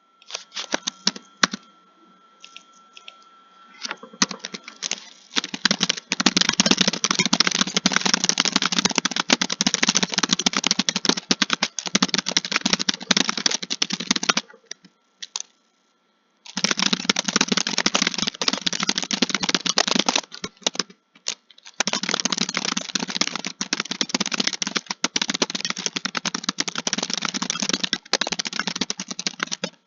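Fast continuous typing on a computer keyboard, a dense patter of key clicks. A few scattered keystrokes come first, then a steady run with a pause of about two seconds midway and a shorter break a few seconds later.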